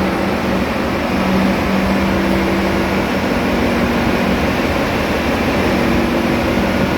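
Loud, steady machinery din of an engine room, with a low hum that fades and returns several times.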